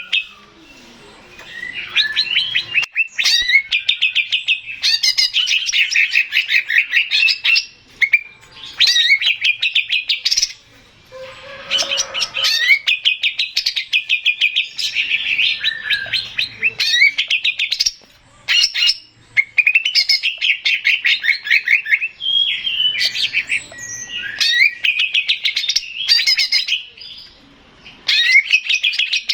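Male green leafbird (cucak ijo) singing loudly in phrases of a few seconds. Each phrase is a fast run of sharp, high notes, with short pauses between phrases.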